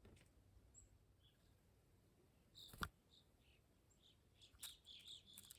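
Faint sharp pops of black-capped chickadees' feet as they land at the feeder: a few separate pops, the loudest near the middle, more in the last second or so.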